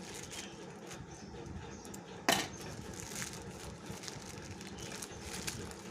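Handling of a parcel being unboxed: small clicks and rustles, with one sharp, loud snap a little over two seconds in.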